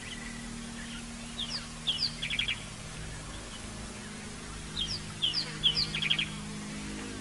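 A wild bird calling twice, each phrase a few high, quickly falling notes followed by a short rapid rattle, over a steady low hum.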